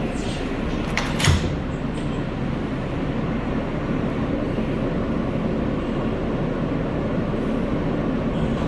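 NYC Subway R143 train running between stations, a steady rumble of wheels on rail, with a sharp clack about a second in.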